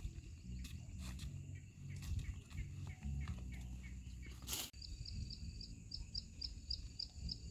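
Rural outdoor ambience: rows of short, high chirps, about two or three a second, over a steady high insect-like whine and a low wind rumble. A brief rustle about four and a half seconds in.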